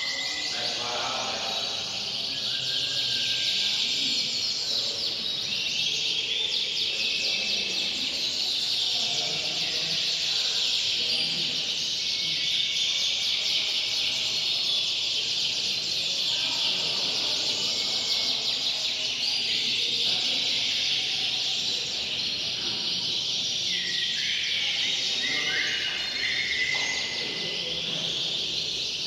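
Canaries singing in a dense, continuous chorus of high trills and whistles, with a few short gliding whistles standing out near the end.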